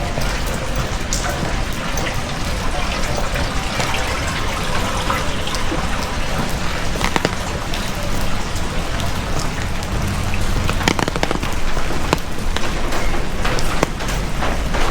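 Heavy rain falling steadily, with sharp taps of single drops striking close by now and then and a low rumble underneath.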